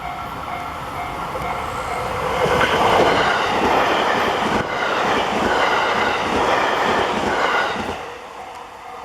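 A train passes a Japanese railway level crossing: the rumble and clatter of its wheels swell about two seconds in and die away near the end. Around it the crossing's electronic alarm bell rings a steady repeating ding, about two and a half a second, heard plainly before and after the train.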